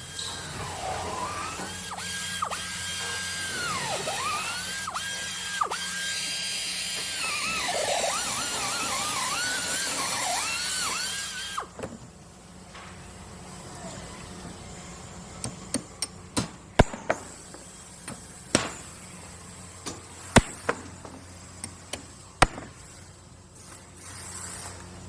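Power drill at a construction site: the motor whines at a high pitch that repeatedly dips and climbs back, as the drill is loaded and the trigger eased, for about eleven seconds, then stops. Afterwards a steady low hum remains, with scattered sharp clicks and knocks.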